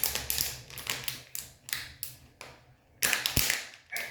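A run of quick, sharp taps and clatters, roughly a dozen in the first three seconds, then a louder burst of clattering about three seconds in.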